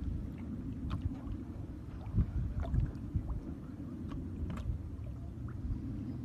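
Water sloshing and splashing against a boat's hull under a steady low wind rumble, with a few small splashes standing out.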